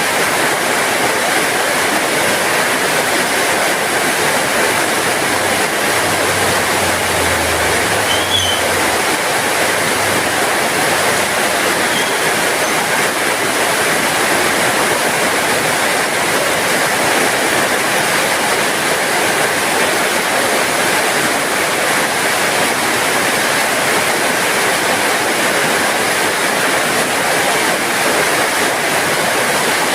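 Heavy rain falling steadily, an even hiss without let-up. A faint low hum rises under it for a few seconds in the first half.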